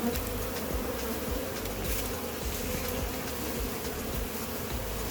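Honey bees from a wild colony buzzing steadily in a dense, continuous hum, the bees stirred up by their hive being cut open.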